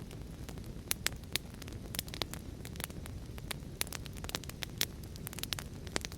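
Wood fire crackling in a fireplace, with irregular sharp pops several times a second, over a steady low rush of rain.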